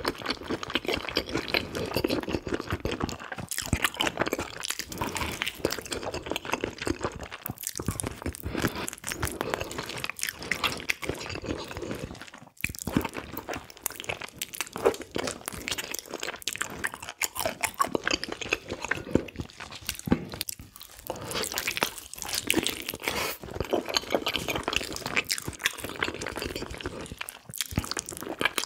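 Close-miked chewing and biting of a person eating spicy pig's trotters, with crunchy, sticky mouth sounds coming thick and irregular and pausing briefly now and then.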